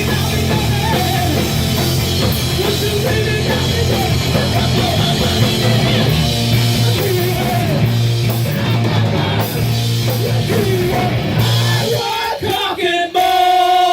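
Live rock band playing loud, with distorted guitar, drums and vocals. The song ends about twelve seconds in, leaving a held, ringing note.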